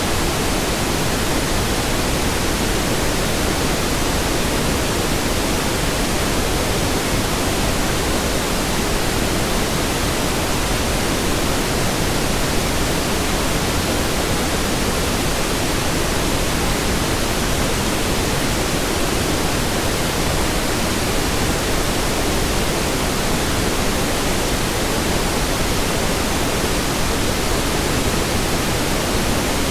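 Steady pink noise: an even, unchanging hiss spread across all pitches, weighted toward the low end.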